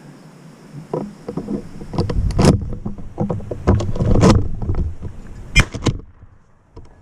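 Irregular rustling, crackling and knocking thumps, dense from about a second in until it drops away near the end.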